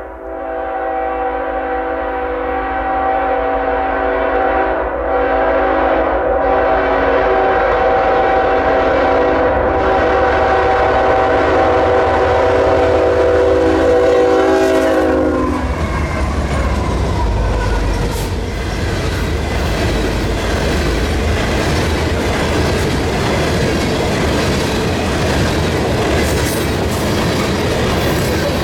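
Freight train locomotive horn held in one long blast, its pitch dropping slightly as the locomotive passes about fifteen seconds in, then the rumble and clickety-clack of the oil train's tank cars rolling by.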